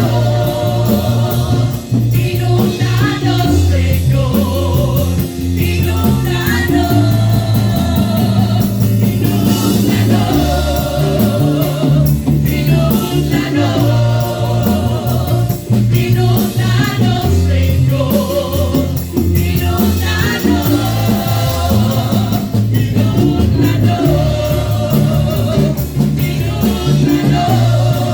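Praise-and-worship music: voices singing over a band with a moving bass line and a steady drum beat.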